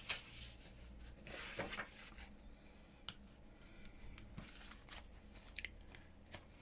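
Faint rustling and a few light ticks of paper and card pages being handled and moved about, over a low room hum.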